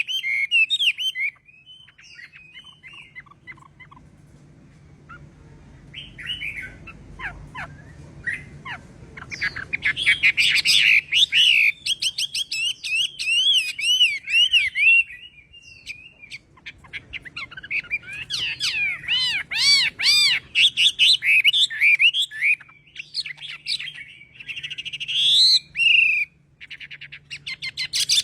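Chinese hwamei (họa mi) singing: loud, varied phrases of looping whistled notes and rapid trills, broken by a pause of a few seconds near the start and a shorter one about halfway through.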